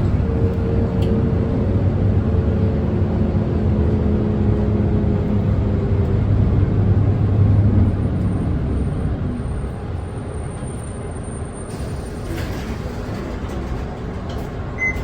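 Interior sound of a Nissan Diesel Space Runner city bus's diesel engine running, then falling to a quieter idle partway through as the bus slows and stops. A short hiss comes about twelve seconds in.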